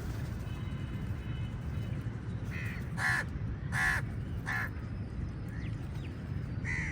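Crows cawing: about five short harsh caws, the loudest two in the middle, over a steady low rumble.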